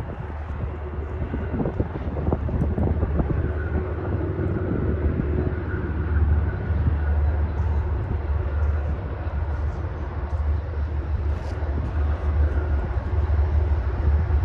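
Low, steady rumble of an approaching train's diesel locomotive, growing gradually louder.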